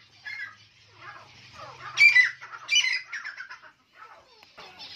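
Caged birds squawking and chirping in short, scattered calls, loudest about two seconds in and again just before three seconds.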